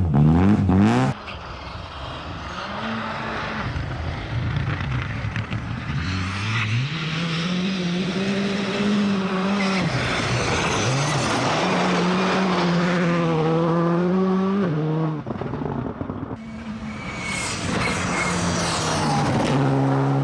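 Rally car engines revving hard on a stage, the pitch held high for a few seconds, then dropping and climbing again with gear changes, over tyre and road noise. The sound changes abruptly a few times where separate clips are cut together.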